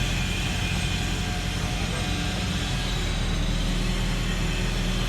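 Heavy diesel engine of earthmoving machinery running steadily under a constant low drone, with no change in pitch or load.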